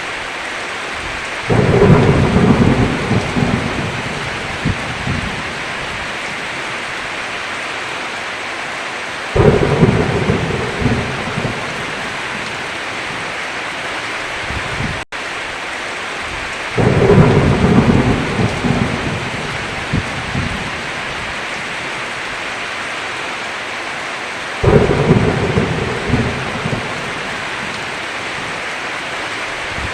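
Steady heavy rain with thunder: four rumbles, each starting suddenly and rolling off over a few seconds, about every seven to eight seconds. The rain cuts out for an instant about halfway through.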